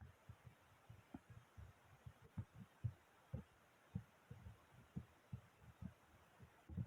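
Slime being squeezed and pressed by hand, giving soft, irregular low pops and squelches a few times a second, with a louder run of them near the end.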